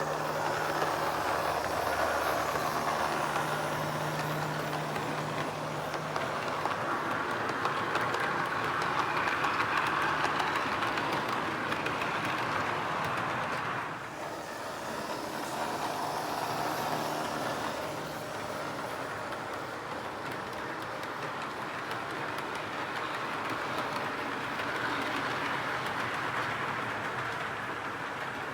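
Model train running on the layout track: a steady rolling sound of wheels on rail with a faint motor hum. It dips in level about halfway through and comes back.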